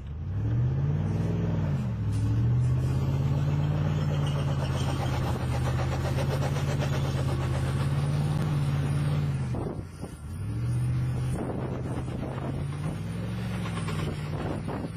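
A motor vehicle engine revving up and back down about a second in, then running at a steady pitch for several seconds. It drops off about ten seconds in, then revs up and down again near the end.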